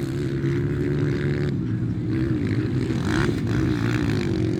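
Engines of 125 to 160 cc class motocross bikes running on the track, their pitch rising and falling a little as the riders work the throttle.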